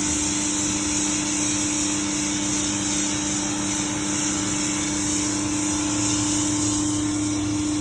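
Pressure washer running steadily: an even motor hum under a constant hiss of spray.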